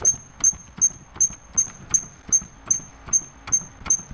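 Hydraulic floor jack being pumped to lift a car: a steady run of strokes, about three a second, each giving a sharp click with a short high squeak.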